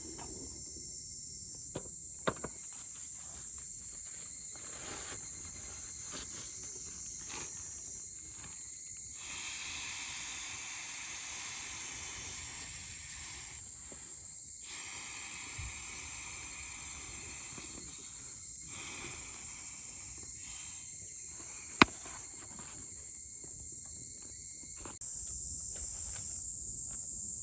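Insects chirring steadily in a high, continuous band that grows louder near the end, with a few sharp clicks, one of them louder.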